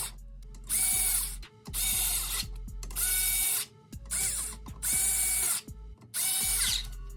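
Cordless power ratchet run in short bursts about once a second, running the bolts of a transmission cover down.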